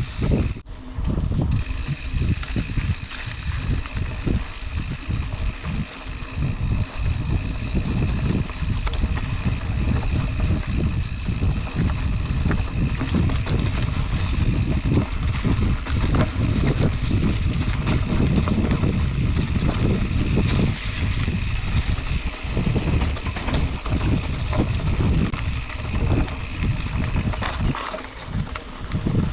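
Wind buffeting an action camera's microphone and the rattle and knocks of a Specialized Chisel hardtail mountain bike rolling over a rough dirt trail, with a brief lull about a second in.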